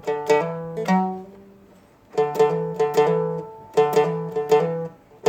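A Seagull Merlin, a small fretted dulcimer-style instrument, strummed in short phrases: a strum, a second strum, then a fretting-hand hammer-on that shifts the chord. There is a short pause about a second in, then the phrase comes twice more in quick succession.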